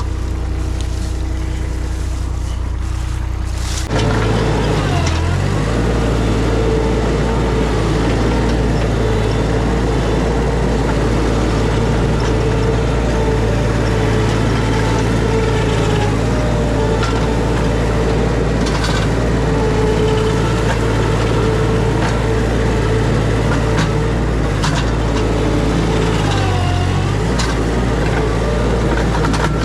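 Mini skid steer's engine running under load as it works. It throttles up sharply about four seconds in, carries a steady whine, and bogs down briefly twice, with a few scattered knocks.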